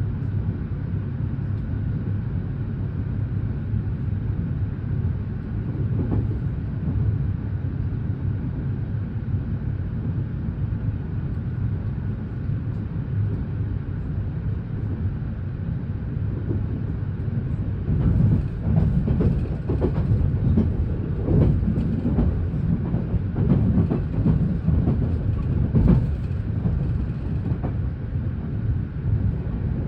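Interior running noise of a JR West commuter train: a steady low rumble. In the second half, a run of irregular clacks and knocks as the wheels pass over track joints.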